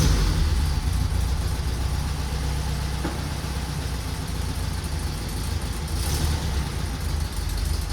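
A 1972 Volkswagen Beetle's air-cooled flat-four engine running steadily with a deep, even rumble.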